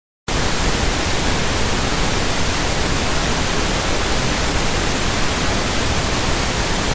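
Loud, steady static hiss with no tone or rhythm in it, starting abruptly and cutting off suddenly.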